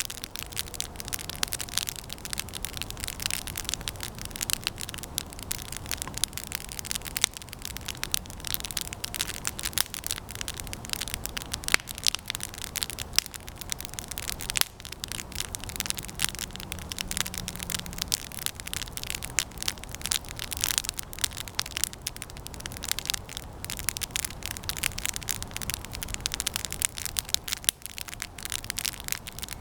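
Campfire of resinous pine branches burning with continuous, irregular crackling and sharp pops.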